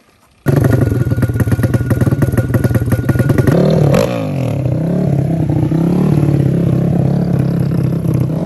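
ATV engine running loud and close, cutting in abruptly about half a second in with rapid, even firing pulses. Around four seconds in its pitch sweeps and it settles into a steadier running note.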